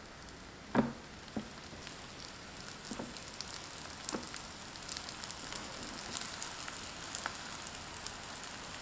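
Filled chive pancake parcels frying in hot oil on an electric griddle pan: a faint sizzle and crackle that slowly grows louder as more parcels go down, with a few soft taps as they are set on the pan, the clearest about a second in.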